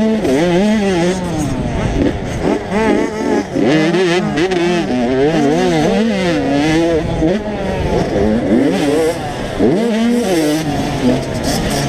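Small two-stroke 85cc motocross bike engines revving hard, over and over, their pitch climbing and dropping with each throttle change, with more than one bike heard at once at times.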